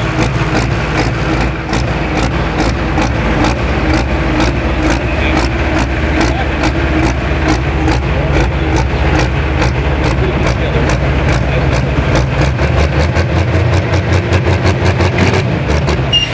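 Heavy diesel engine of a pro stock pulling tractor running steadily, with a sharp regular clicking that quickens from about two to about four a second. A low pulsing comes in near the end.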